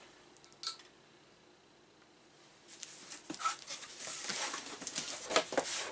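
Packaging of a sealed replacement circuit board being opened and handled: a single click about half a second in, then after a short pause a busy run of rustling, crinkling and light knocks.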